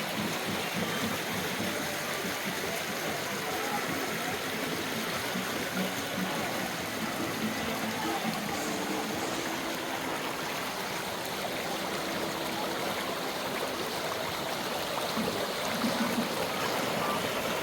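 Rushing water, a steady unbroken hiss of flowing water such as a stream or small waterfall.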